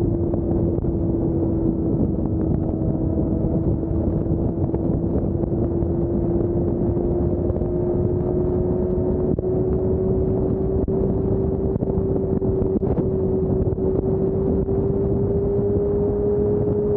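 Motorcycle running at a steady highway cruise, its engine note holding one pitch that creeps slowly upward, over a dense rush of wind and road noise.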